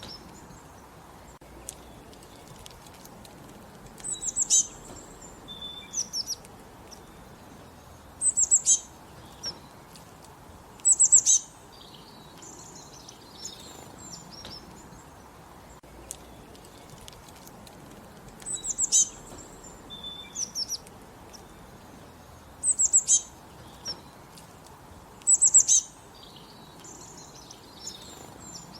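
Songbirds singing: short, high-pitched phrases of rapid notes repeated every few seconds, with softer chirps in between, over a steady faint background hiss.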